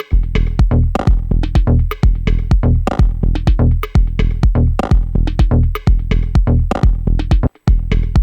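Electronic dub-techno groove from a drum machine and synth, with a heavy pitched bass line and kick coming in at the start over a repeating percussion pattern. Everything drops out briefly near the end, then comes back.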